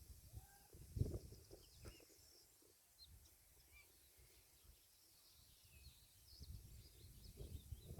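Faint, scattered bird chirps over quiet outdoor background noise, broken by intermittent low rumbles, with the strongest low thump about a second in.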